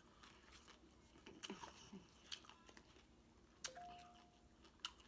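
Faint close-up chewing of food, with a handful of soft, sharp mouth clicks and smacks.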